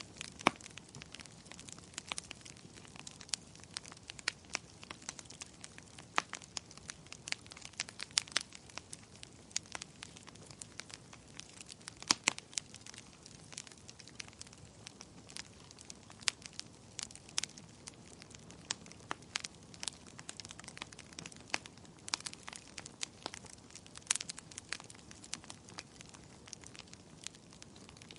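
Wood fire in a fireplace crackling, with irregular sharp pops (several a second, a few much louder) over a soft steady hiss.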